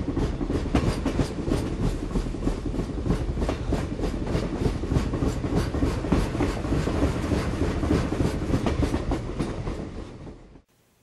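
Train wheels clattering over rail joints in a steady rhythm, fading out near the end.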